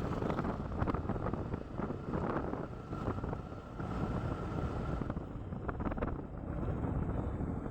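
Wind buffeting the microphone while riding a motorcycle on the road, a steady rush of wind and road noise with small irregular gusts.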